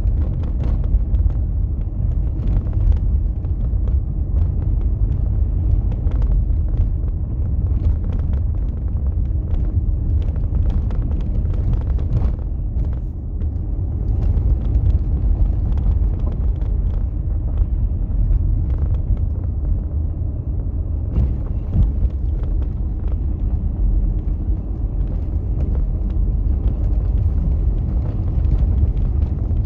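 Steady low rumble of vehicle and road noise, with scattered short knocks through it.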